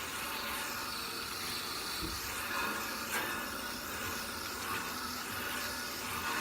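Garden hose spraying water into the louvers of an air conditioner's outdoor condenser coil, a steady hiss of water rinsing dirt out of the coil.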